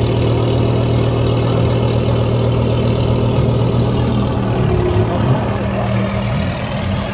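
Car engines idling, a steady low drone whose pitch shifts slightly about six seconds in.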